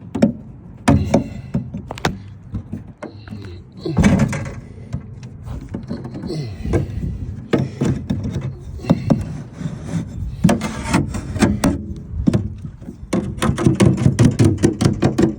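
Irregular knocks, taps and handling noise as sound-deadening mat is worked onto a Land Rover tub's underside, with a quick run of taps near the end.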